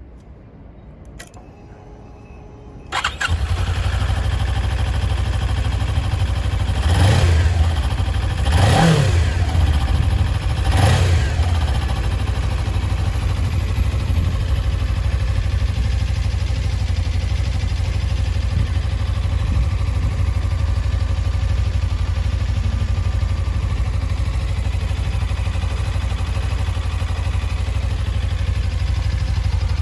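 Suzuki V-Strom 250's parallel-twin engine: a click and brief faint whir, then the engine catches about three seconds in. It is revved three times in quick succession and then settles into a steady idle.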